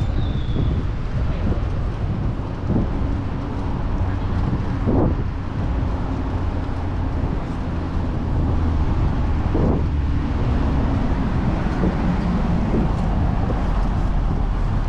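Wind buffeting the microphone while riding a bicycle, over the steady rumble of city traffic, with a couple of brief knocks.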